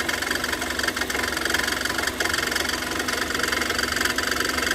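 Kia Sorento engine running with a steady, fast chattering noise from the accessory-belt area, brought on by water thrown over the wet poly-V alternator belt. The noise appears only when the belt drive gets wet, and it goes with the battery warning light coming on.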